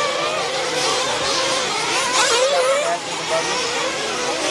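Several nitro-engined 1/8-scale RC off-road trucks racing, their small engines buzzing at high pitch and rising and falling in pitch as they rev and back off, with a few overlapping at once.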